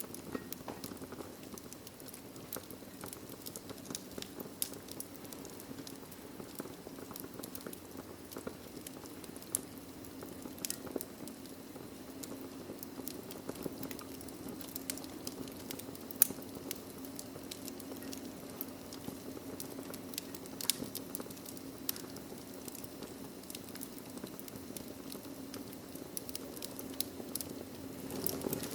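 Wood fire crackling in a fireplace: irregular sharp pops and snaps over a steady low rumble and faint hiss of the burning logs, with a few louder pops along the way.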